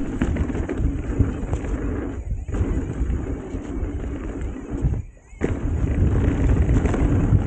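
Ibis Mojo HD5 mountain bike riding down a rough dirt trail: a steady rumble of tyres and clattering of chain and frame, heavy with small knocks. It briefly goes quiet twice, about two seconds in and again about five seconds in.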